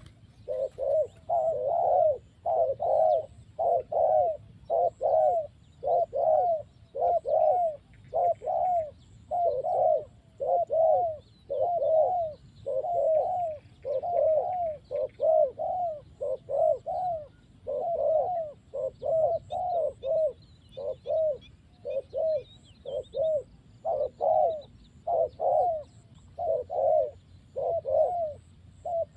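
Doves cooing over and over, about one coo a second: a tethered decoy dove calling to lure a wild dove, which the title says is calling back. Small birds chirp faintly in the background.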